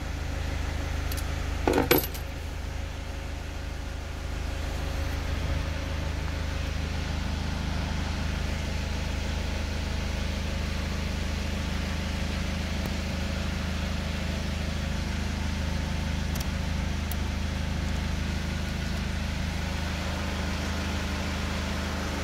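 SsangYong Actyon engine idling with a steady low hum. A brief jingle of the car key comes about two seconds in.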